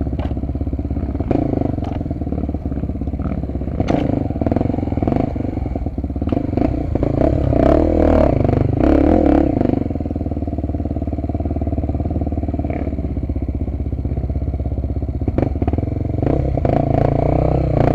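Honda XR250 Tornado's single-cylinder four-stroke engine running on a dirt trail, revving up from about seven to ten seconds in, with scattered knocks and rattles.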